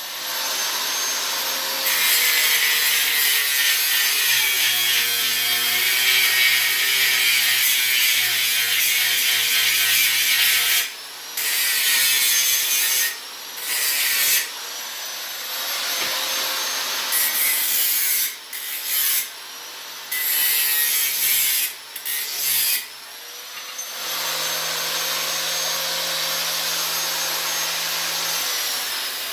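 Electric grinder grinding steel frame pieces: a loud, rough, high grinding with a motor whine, broken by several short sudden breaks in the middle as the grinding stops and starts again.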